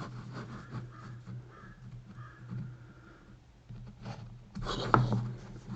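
Pencil marking layout lines on a wooden board: light scratching strokes among small taps from handling the work and tools. A sharper knock about five seconds in.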